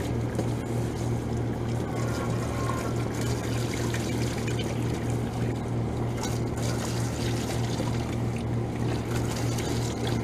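Water pouring and trickling as it drains out of an air-conditioner condenser unit after a hose-down, over a steady low hum.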